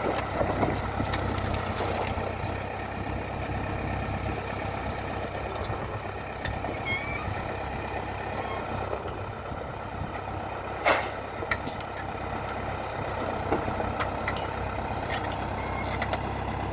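Valmet 705 tractor's engine running steadily while timber is handled, with scattered sharp knocks of boards, the loudest about eleven seconds in.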